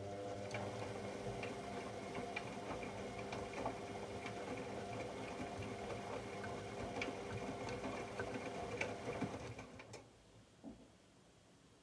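AEG Lavamat L74810 washing machine's drum motor turning the drum, a steady hum with scattered clicks and clatter from inside the drum, stopping about ten seconds in: one tumbling turn of the wash cycle.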